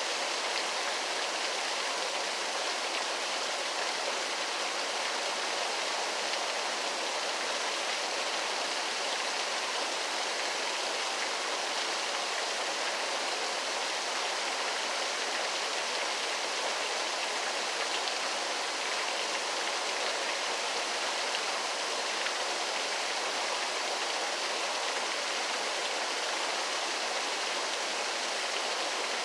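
Waterfall: water falling and splashing in a steady, even rush, bright and hissy with little deep rumble.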